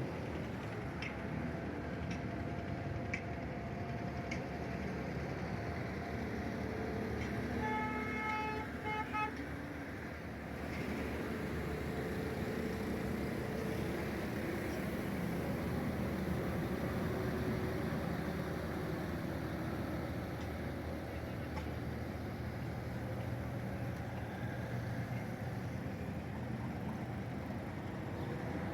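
Vehicle engines running steadily, with a horn sounding a quick run of short toots for about two seconds, about eight seconds in.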